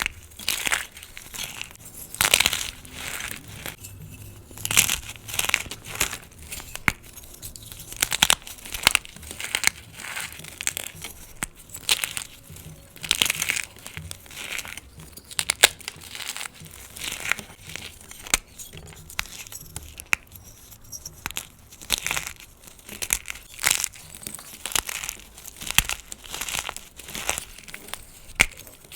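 Gym chalk being crushed: a continuous string of crisp, glassy crunches, irregular, with louder crunches every second or two.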